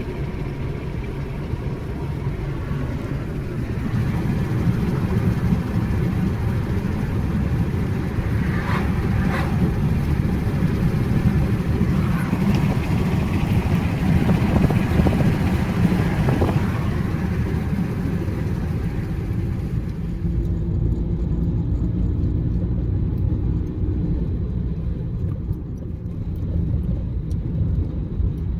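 A car driving, with steady engine and road rumble and a few brief knocks between about 8 and 16 seconds in. The higher hiss drops away about 20 seconds in.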